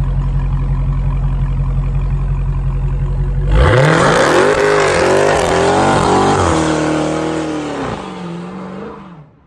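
Dodge Charger SRT Hellcat's supercharged 6.2-litre V8 idling steadily, then about three and a half seconds in it is revved hard for a burnout, the note climbing and wavering up and down over the tyre noise before it drops and fades out near the end.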